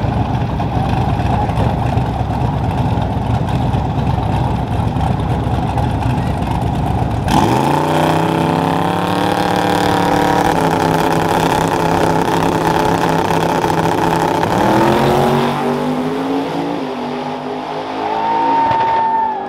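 A vehicle engine rumbling, then from about seven seconds in an engine revving and accelerating hard, its pitch climbing in several steps.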